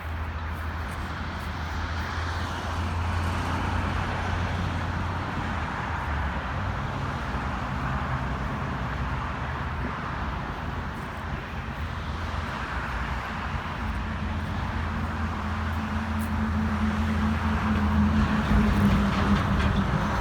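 Road traffic on a highway passing steadily. A heavier vehicle's engine comes in about two-thirds of the way through and grows louder near the end.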